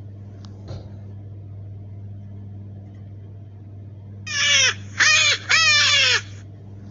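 Three short, harsh squealing cries, each falling in pitch, about four seconds in, played as the rabbit's call, over a steady low hum.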